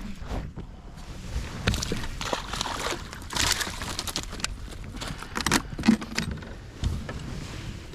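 Irregular clicks, knocks and rattles of fishing gear being handled aboard a kayak, with a short rush of noise a little past the middle and a dull thump near the end.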